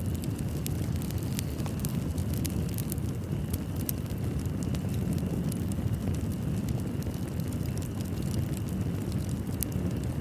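Fireplace fire crackling: scattered sharp pops and crackles over a steady low rumble of burning wood.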